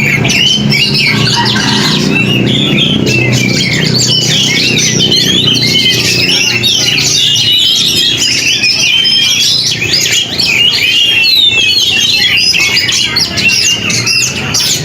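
Oriental magpie-robin (kacer) singing a dense, nonstop song of quick whistles, trills and harsh notes.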